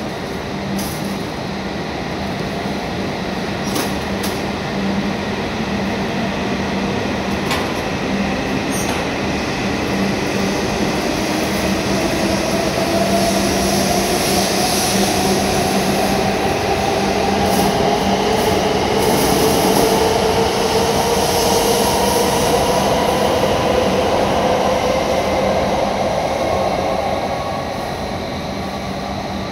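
E7-series Shinkansen train pulling out of the station, its traction motors whining in two rising tones as it gathers speed. The train noise swells as the cars pass and drops off near the end.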